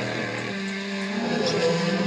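Rally car engine at high revs, its pitch climbing slowly and dropping at gear changes.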